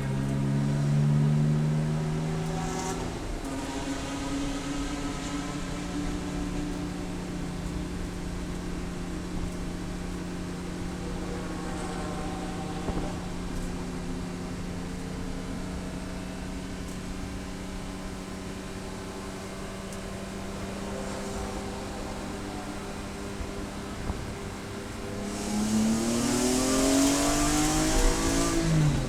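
Race car engine under way: it climbs in pitch at first, then holds one steady note for a long stretch. Near the end it revs up again, with a hiss, and drops sharply as it shifts gear.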